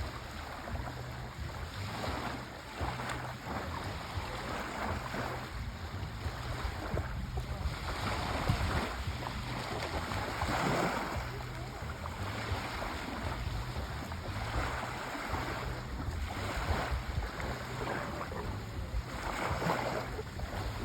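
Sea waves washing in and drawing back, the surf swelling and fading every few seconds, with a steady low rumble underneath.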